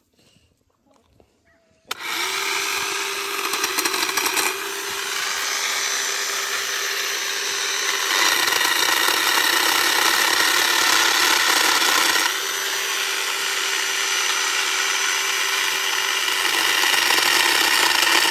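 Worx 10-inch battery-powered electric chainsaw starting up about two seconds in and running as a steady whine while limbing redwood branches, its level stepping up and down several times as the load changes.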